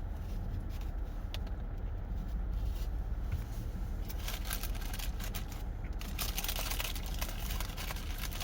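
A paper food wrapper rustling and crinkling as it is handled, starting about four seconds in, over a steady low hum.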